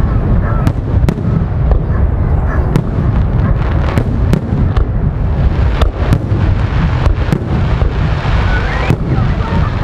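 Aerial firework shells bursting one after another. The low booms run together into a continuous rumble, with many sharp cracks and crackles scattered through it.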